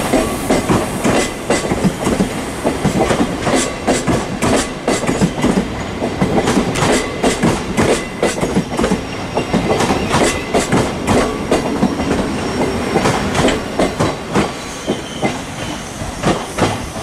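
South Western Railway Class 707 electric multiple unit pulling out of the platform, its wheels clattering over the rail joints in a rapid, uneven run of clicks as the coaches pass close by. The clatter thins out and quietens in the last couple of seconds.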